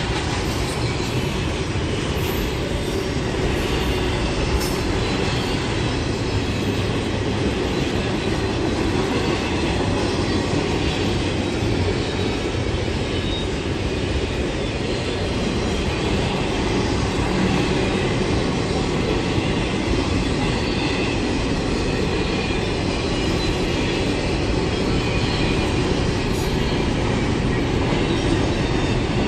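A train's cars rolling past on the rails: a steady, continuous rumble of wheels on track.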